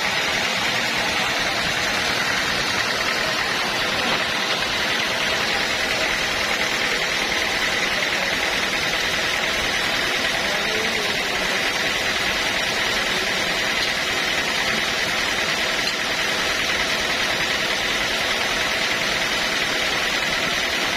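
Steady machinery running without a break, a constant hiss with a faint high whine over it.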